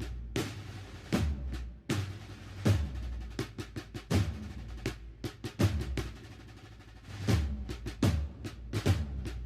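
Marching band drums playing a slow procession drum march: snare drum rolls and taps over heavy bass drum strokes about every one and a half seconds.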